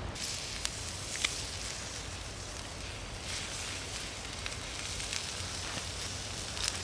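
Wood campfire crackling, with a few sharp pops over a steady hiss.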